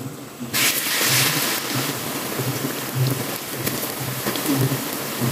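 Batter-coated tempeh slices frying in hot oil in a wok. About half a second in, a loud sizzle bursts up as a freshly battered slice goes into the oil, then settles into steady sizzling.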